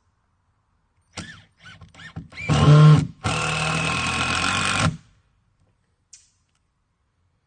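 Power drill driving screws into wood: a few short trigger pulls with the motor whining up and down, then a loud burst and a steady run of under two seconds that stops abruptly.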